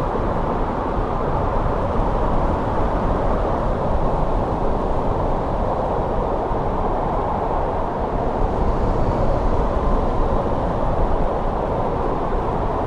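Snowstorm wind blowing steadily: a dense, low rushing noise that swells slightly without breaking.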